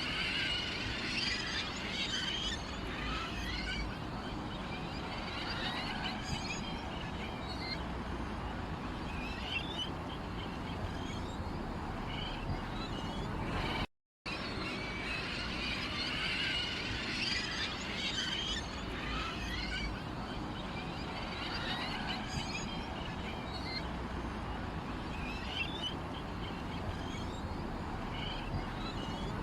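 Small birds chirping and twittering continuously, with pigeons cooing lower down. There is a brief cut to silence about halfway through, after which the same stretch of birdsong repeats.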